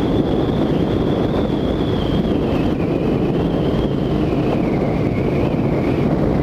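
Motorcycle riding along, with wind rushing over the rider's microphone and a high whine that slowly drops in pitch over a few seconds.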